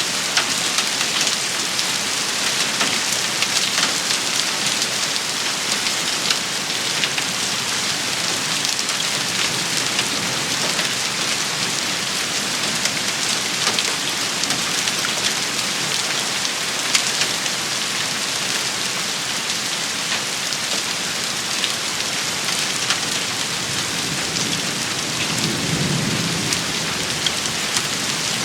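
Heavy rain shower: a dense steady hiss of rain on surfaces, with many sharp individual drop hits. A brief low rumble comes near the end.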